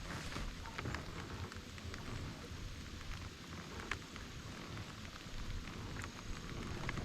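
Rain falling, with scattered sharp ticks of drops and a low, uneven rumble underneath.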